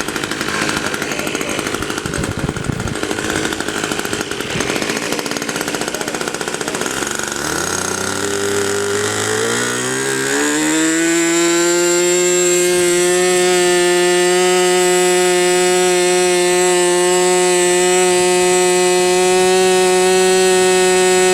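Two-stroke Super Tiger glow engine of an RC model airplane idling roughly, then throttled up in steps over about three seconds to a steady, high-pitched full-throttle whine.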